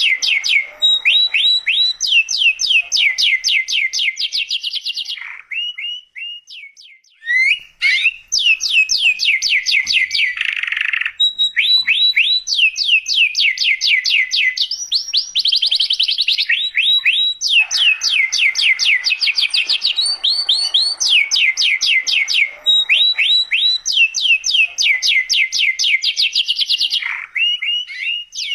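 Domestic canary in full song: loud, continuous trills, each a run of quick downward-sweeping notes, repeated phrase after phrase with a short pause about six seconds in.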